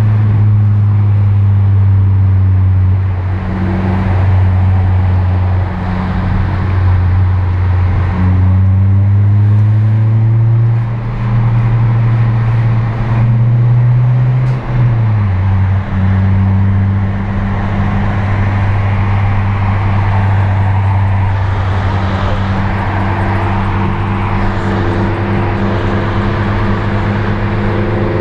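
2008 Acura TSX's 2.4-litre four-cylinder engine running under steady load, heard from inside the cabin over tyre and road noise. Its note climbs slowly and then drops sharply about fifteen seconds in.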